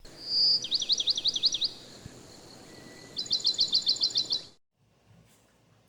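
A songbird singing: a short whistle, then a quick run of about eight falling notes, and after a pause a faster run of about a dozen high chirps. The sound cuts off suddenly about four and a half seconds in.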